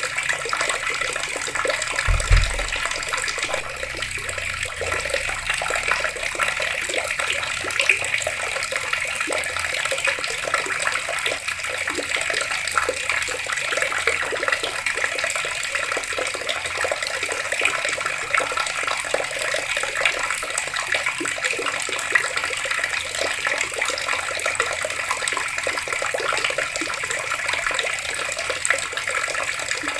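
Water running steadily from taps, with a brief low thud about two seconds in.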